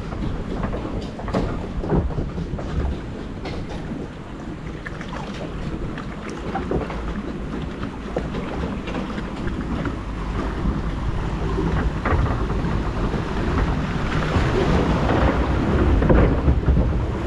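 Water rushing and splashing around a river-rapids ride boat, with wind buffeting the microphone; the rushing swells louder near the end.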